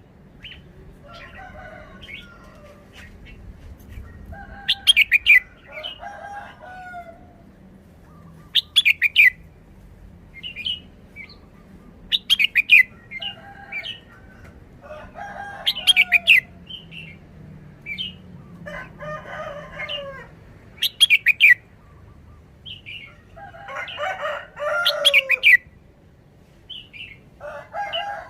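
Red-whiskered bulbul singing short warbled phrases, repeated every few seconds, with sharp high chirps between them.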